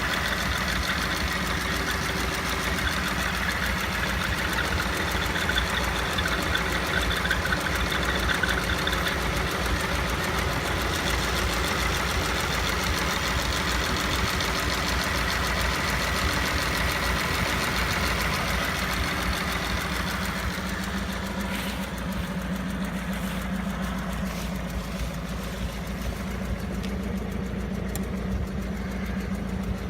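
GAZ-69's M-20 four-cylinder side-valve engine idling, with its drive belt squeaking over the steady engine sound. The squeak comes from the generator pulley sitting out of line. The higher squeaking part eases about twenty seconds in.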